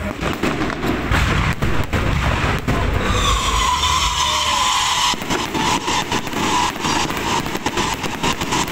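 Firecrackers going off in a rapid crackle from about halfway through, over a steady high whistle that falls slightly in pitch.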